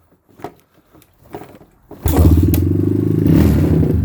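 Suzuki LT230S quad's single-cylinder four-stroke engine catching on a kick about halfway through and running steadily for about two seconds on full choke. It is a cold start at about 15 degrees after the quad sat for three weeks.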